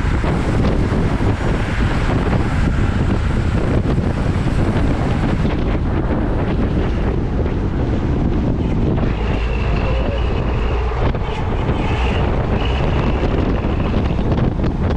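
Heavy wind buffeting the microphone of a bicycle-mounted camera while riding at speed, a steady rushing roar. A faint high whine comes and goes in the second half.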